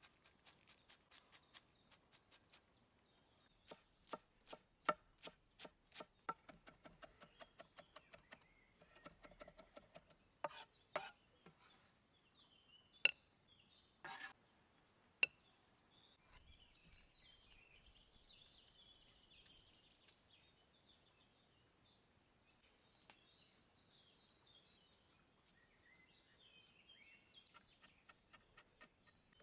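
Knife chopping on a cutting board in quick, even strokes, about four a second, in two runs. A few louder single knocks follow about halfway through, then faint bird chirps.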